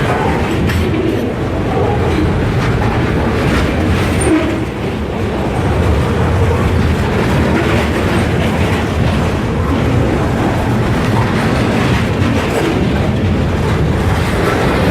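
Freight train rolling past, a steady noise of wheels on the rails with clicking over the rail joints.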